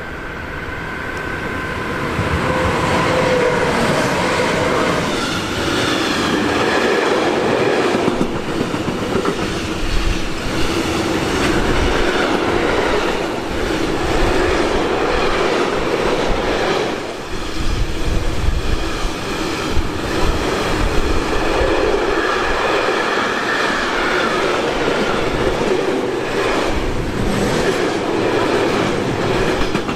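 A train passing close by, its wheels clattering over the rail joints. It gets louder over the first two seconds, then holds loud, with a few faint whining tones drifting in pitch early on.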